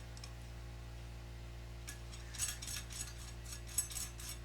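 A low steady hum. From about two seconds in comes a run of light metallic clicks and clinks as small metal hardware is handled.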